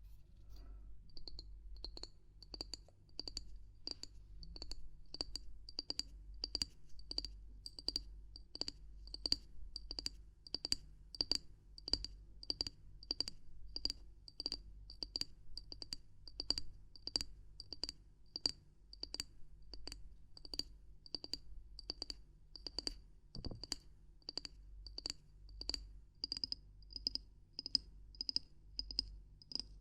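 Steady, evenly spaced sharp clicks, about two a second, each with a brief high ring, made by knocking on a small hard object.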